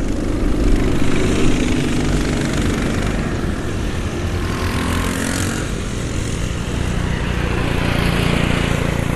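Motor vehicle engine running steadily; its pitch is higher for the first few seconds, then drops and holds lower.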